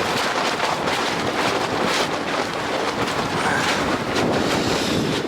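Strong wind, about 20 knots, blowing across the microphone: a loud, steady rushing noise.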